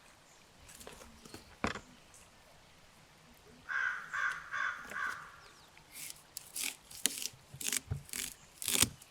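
A bird calling four times in quick succession, then a run of sharp clicks and knocks, the loudest near the end.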